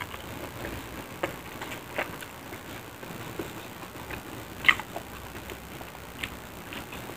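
Chewing of crispy battered fried tempeh (tempe mendoan): scattered soft crunches and wet mouth clicks, the loudest about four and a half seconds in.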